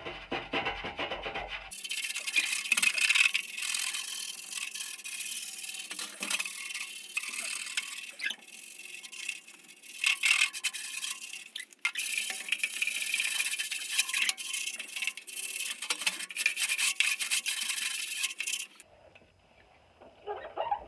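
Hand wire brush scrubbing the rusty weld seam of a steel muffler in quick, scratchy strokes. It starts about two seconds in and stops about two seconds before the end.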